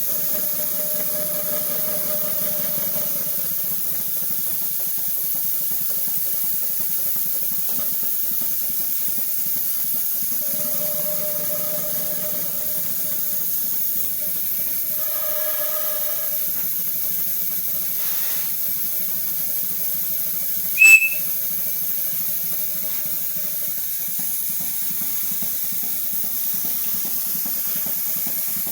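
5-inch gauge Maxitrak Jack model locomotive running on compressed air for an air test, giving a steady hiss of escaping air. About two-thirds of the way through there is one brief, sharp, high whistle.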